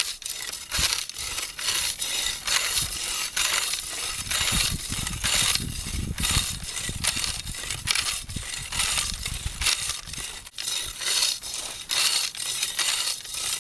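A hula hoe with a 1/8-inch steel blade worked back and forth through stony soil and small weeds: a quick series of gritty scrapes and crunches, several strokes a second.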